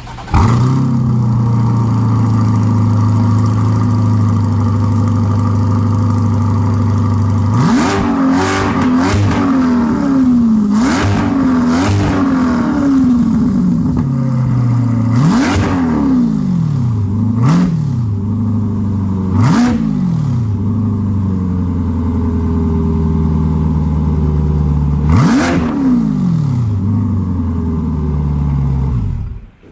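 C8 Corvette V8 through an aftermarket center-exit track exhaust, catching about half a second in and settling to a steady idle. From about eight seconds in it is blipped in a series of short revs, some in quick succession and others spaced a few seconds apart, each rising and falling quickly, before it returns to idle.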